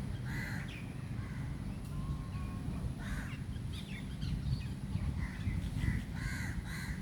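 Birds calling outdoors: a few short calls early on and around the middle, then several in quick succession near the end, over a steady low background rumble.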